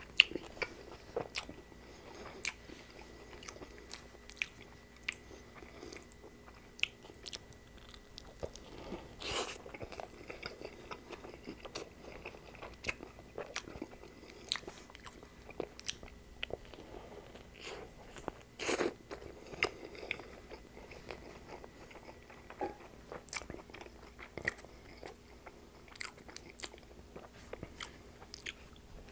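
Close-miked chewing and biting of a sub sandwich with lettuce: many small wet mouth clicks and soft crunches, with a few louder bites.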